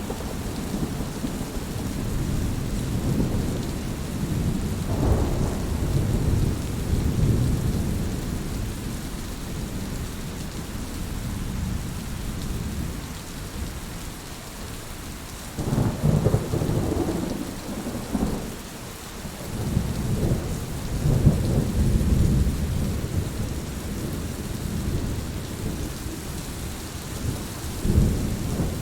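Heavy rain falling steadily, with low rolls of thunder that swell and fade several times.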